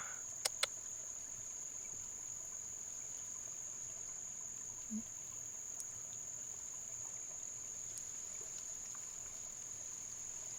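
Steady, unbroken high-pitched chirring of insects, with two sharp clicks about half a second in.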